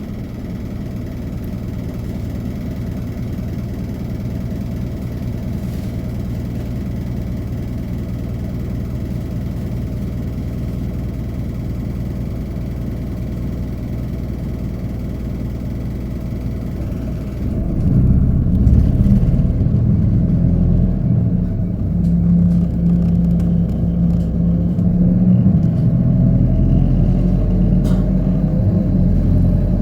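Hino Poncho small bus's diesel engine and road noise heard from inside the cabin, running steadily, then growing louder about 17 seconds in as the engine works harder and the bus accelerates.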